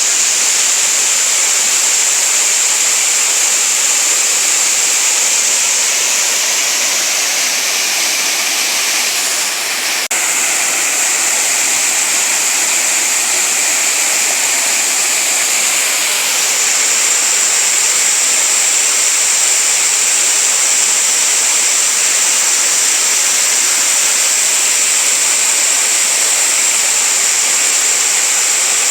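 Waterfall: water falling and rushing over rock in a steady, loud hiss, with a faint click about ten seconds in.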